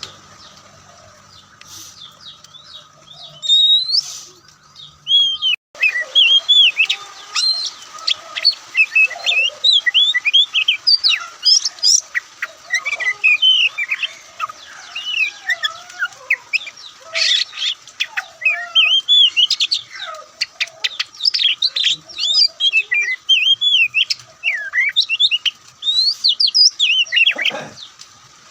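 Oriental magpie-robin singing a fast, varied song of whistles and chirps. It is sparse for the first few seconds, then runs on almost without pause from about six seconds in. A faint steady hum lies underneath.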